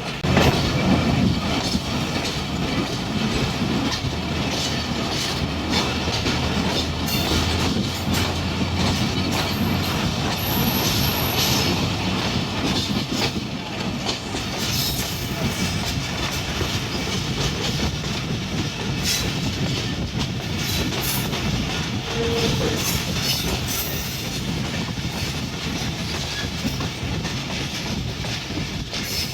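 Passenger train running along the line: a steady rumble of wheels on rails, with repeated clicks of the wheels over rail joints.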